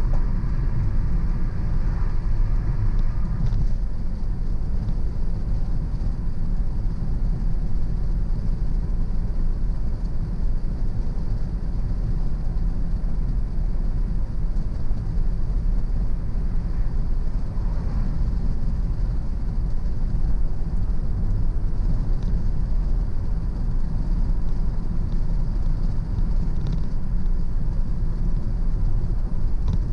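A car driving steadily on a country road: continuous low rumble of engine and tyre road noise.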